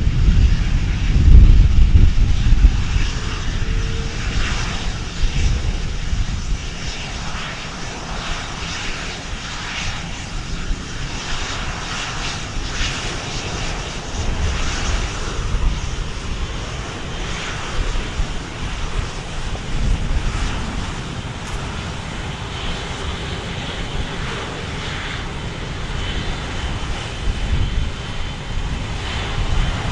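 Airplane engines running, a continuous rumbling roar at an airport, with heavy low buffeting in the first couple of seconds.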